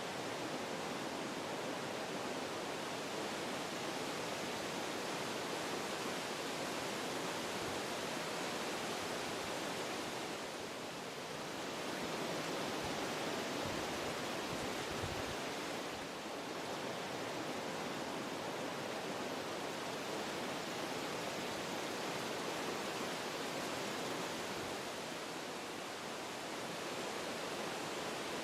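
Wind blowing through forest trees, a steady rushing that swells and eases slightly every several seconds with the gusts.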